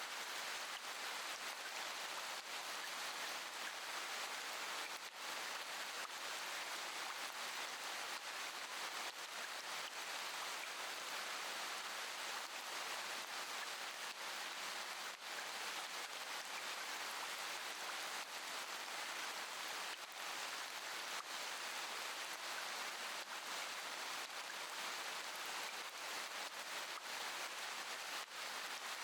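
Steady rainfall, an even hiss of rain with faint scattered drop patters and no thunder.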